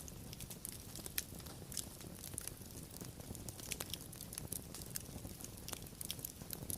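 Wood fire crackling, with irregular sharp pops and snaps over a low steady rumble of the burning.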